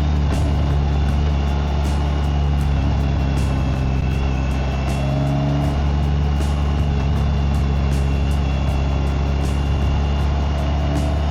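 BMW K1600GT's inline-six engine and exhaust running at a steady cruising speed, with an even, unchanging engine note.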